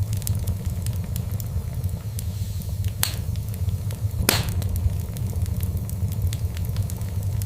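Fireplace fire crackling over a steady low rumble, with frequent small snaps and two louder pops about three and four seconds in.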